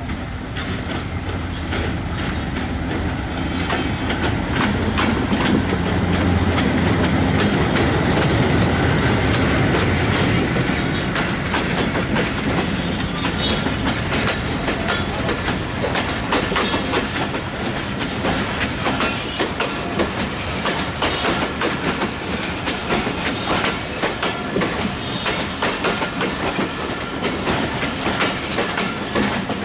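Diesel locomotive passing as it pulls an express passenger train out of the station, its engine rumble loudest in the first ten seconds. The coaches then roll by with a steady clickety-clack of wheels over rail joints.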